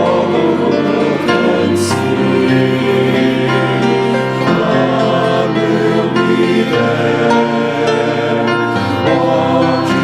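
Choir singing a hymn with musical accompaniment, held notes changing from chord to chord.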